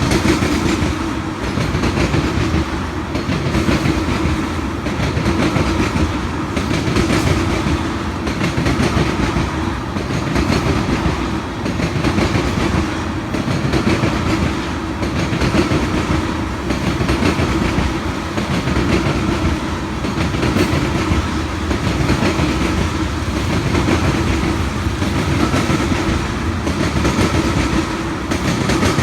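A train rolling past at close range, its wheels clacking over the rail joints in a steady rhythm of about one beat a second.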